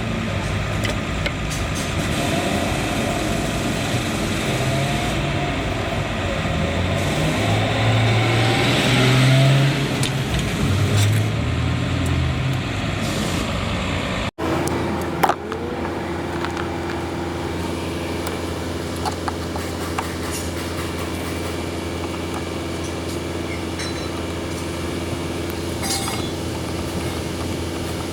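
Bus engine running, with the AC system switched on for testing after the refrigerant valves were reopened. About halfway through the sound cuts, and after that the engine runs as an even, steady hum with a few light clicks.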